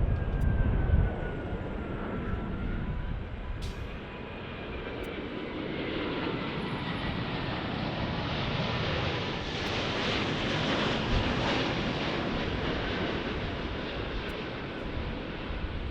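Jet airliner passing: a rushing engine noise that builds to its loudest about ten seconds in and then eases, with a thin engine whine sliding down in pitch.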